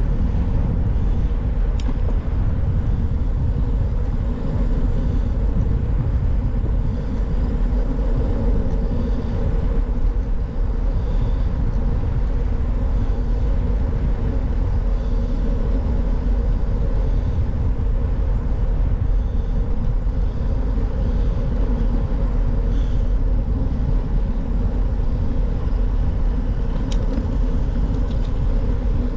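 Steady wind rumble on the microphone with tyre and road noise from a moving bicycle, with a couple of faint clicks.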